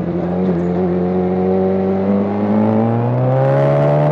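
Motorcycle engine running under acceleration, its pitch climbing slowly and steadily.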